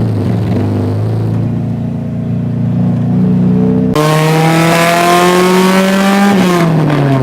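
Car engine accelerating, its pitch climbing slowly. About four seconds in it turns suddenly harsher and louder as the revs keep rising, then the pitch drops near the end as the throttle comes off.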